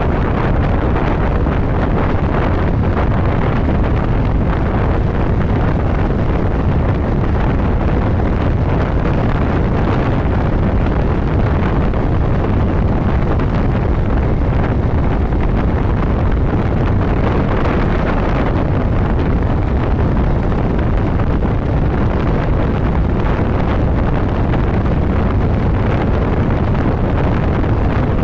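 Steady wind rush over the microphone of a moving motorcycle, mixed with the motorcycle's running and road noise at cruising speed.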